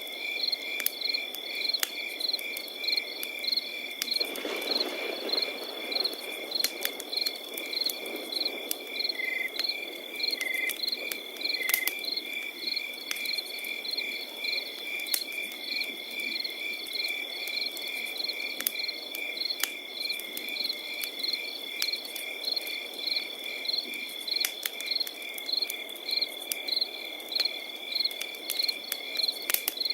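Crickets chirping in a regular rhythm over a steady high insect trill, with a campfire crackling in scattered sharp pops beneath. The fire's low rush swells briefly about four seconds in.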